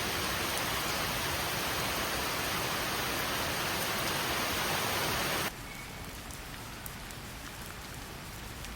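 Steady heavy rain hiss that drops suddenly to a softer rain patter about five and a half seconds in.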